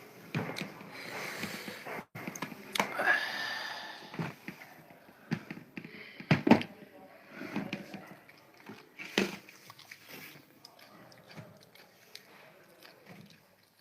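A person chewing and biting food (paknam and singju), with irregular mouth clicks and smacks, loudest about six and a half seconds in.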